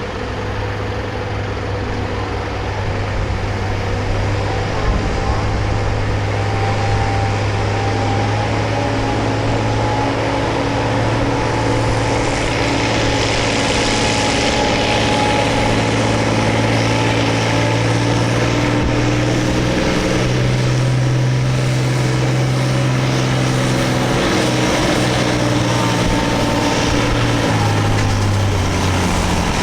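Farm tractor engine running hard under load while pulling a sled, a steady low drone that holds for most of the stretch and drops in pitch near the end.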